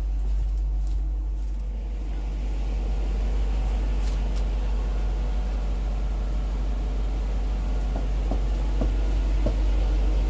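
1997 Mercedes-Benz SL500's V8 engine idling steadily after a cold start, a constant low rumble.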